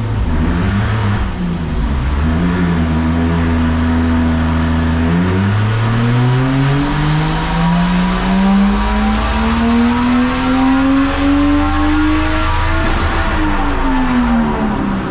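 Turbocharged Toyota 1G-FE inline-six with a straight-piped exhaust, heard from inside the cabin, making a full-throttle dyno ramp run. It holds steady revs at first. From about five seconds in, the revs climb smoothly for about eight seconds as the engine pulls against the dyno's load. Near the end the throttle comes off and the revs fall away.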